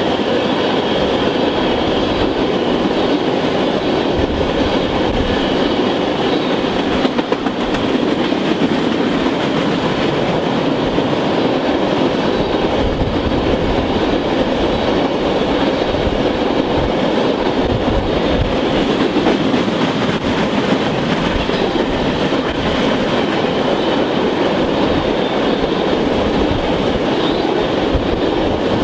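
Norfolk Southern crude oil train rolling past close by: loaded tank cars' wheels clattering steadily over the rails, loud and unbroken.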